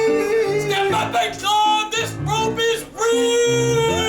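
Live singing over piano accompaniment: a voice holding long sung notes over a moving bass line of played notes.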